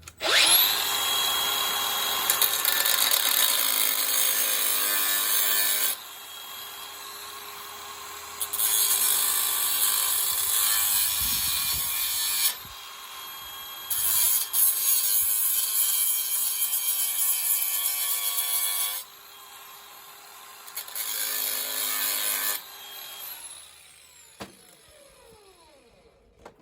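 Angle grinder on steel, grinding a tack weld loose on a cab hinge piece. It spins up at the start and grinds in several loud passes of a few seconds each, with quieter free-running spells between them. It winds down with a falling whine about two seconds before the end.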